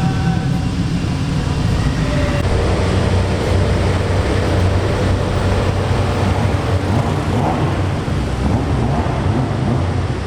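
Modified car's engine idling and creeping at low revs, its exhaust giving a steady, deep drone.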